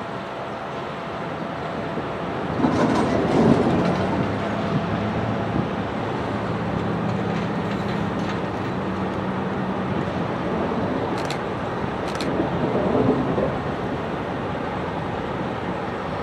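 A train rolling past, a continuous rumble of wheels on rail that swells louder twice, with a low steady tone for several seconds and a couple of sharp clicks near the end.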